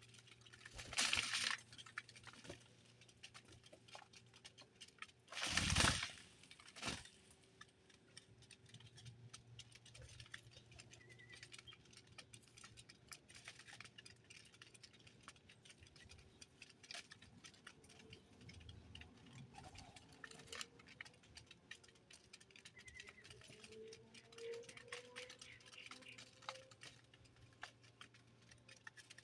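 Small birds feeding: many light, irregular pecking and scratching ticks, with two louder rustling bursts, one near the start and one about six seconds in, and a few faint chirps.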